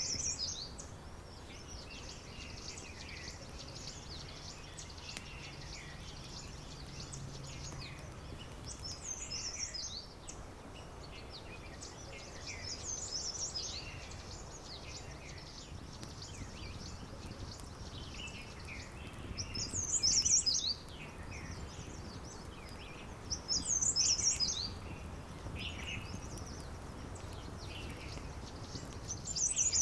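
Several wild birds singing together, with continuous twittering and one bird repeating a loud, high, downward-sweeping phrase every few seconds. A steady low background noise sits beneath.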